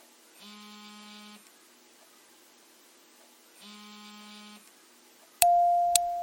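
Two electronic buzzes of about a second each, roughly three seconds apart. Near the end a loud steady beep starts suddenly, with sharp ticks.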